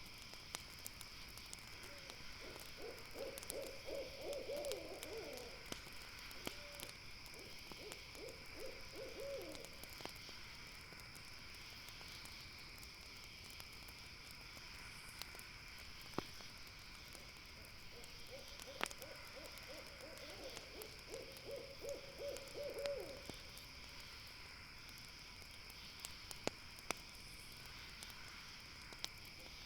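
An owl calling in rapid trilling phrases, two pairs of calls about fifteen seconds apart, over faint campfire crackle pops and a steady high drone of night insects.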